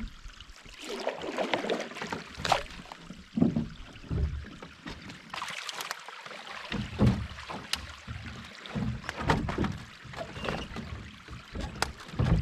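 Canoe paddling: paddles dipping and pulling through the water with splashes and drips, and scattered sharp knocks.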